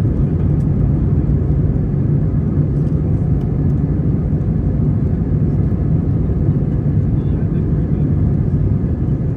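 Airbus A320 heard from inside the cabin: a steady, loud, low rumble of engines and airflow.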